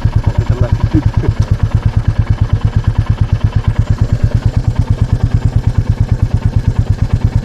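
Royal Enfield Meteor 350's single-cylinder engine idling, a steady, rapid low beat at about ten pulses a second.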